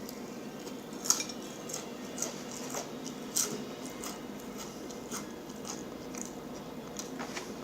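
A person chewing food close to the microphone, with scattered wet mouth clicks and smacks, the loudest about a second in and again past three seconds, over a faint steady hum.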